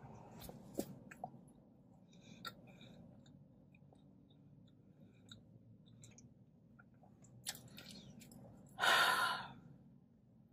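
A person chewing food, with scattered small mouth clicks, and one short, loud rush of noise about nine seconds in.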